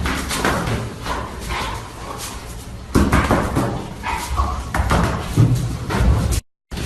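An animal's calls mixed with knocks and thumps, with a sudden loud knock about three seconds in.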